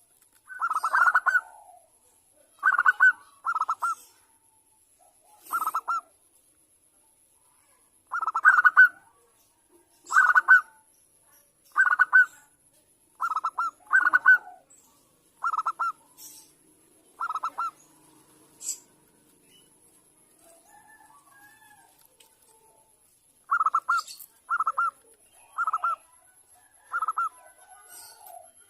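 Zebra dove (perkutut) cooing: short, rapid, bubbling phrases repeated every second or two. There is a few-second lull in the last third.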